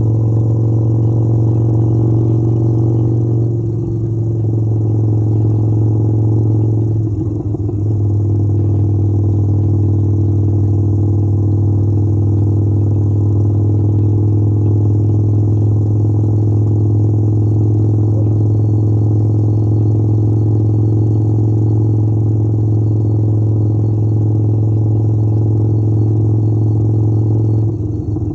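Harley-Davidson motorcycle's V-twin engine running at steady revs while riding, its deep hum holding one pitch, with brief dips in level about four seconds and seven seconds in and again near the end.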